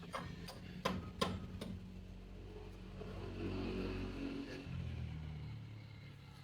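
A few sharp knocks, then a steady engine hum that grows louder and drops in pitch about halfway through.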